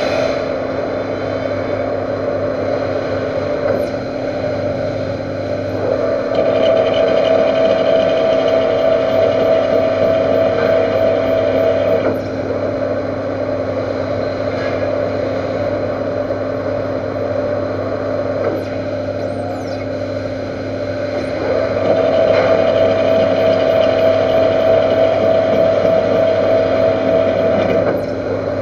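Lathe running while cutting a metric 85×2 thread on a weld-built-up steel spindle tube with a single-point threading tool. The cut twice sets up a steady tone, each pass lasting about six seconds, over the lathe's constant hum.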